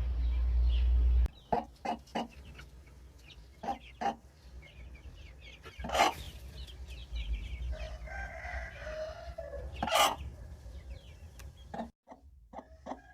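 Chickens clucking in short sharp calls, with a rooster crowing once about eight seconds in. A low rumble runs through the first second or so.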